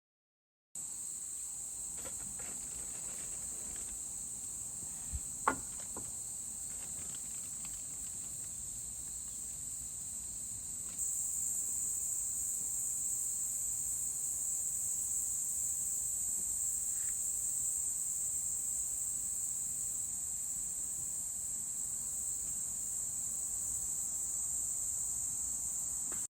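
A steady, high-pitched chorus of insects, with a couple of light knocks about five seconds in; the chorus gets louder about eleven seconds in.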